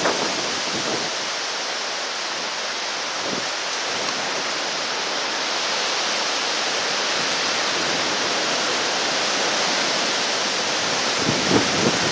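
Steady rushing of a flooded river in spate after a hurricane, an even roar of fast-moving water. A few low puffs of wind on the microphone come near the end.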